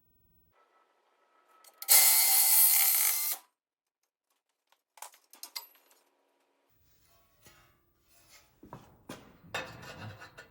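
A power tool runs in one loud burst of about a second and a half, cutting into the old exhaust pipe, then stops. Scattered metallic clicks and knocks follow, with a clatter of handling near the end.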